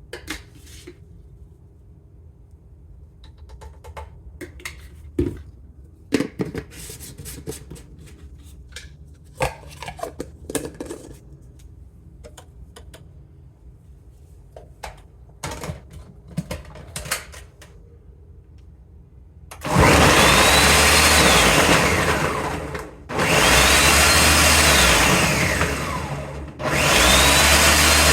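Scattered light clicks and knocks, then a small electric motor, like a kitchen blender's, run in three bursts of about three seconds each. In each burst its whine rises, holds and falls away as the motor spins up and coasts down.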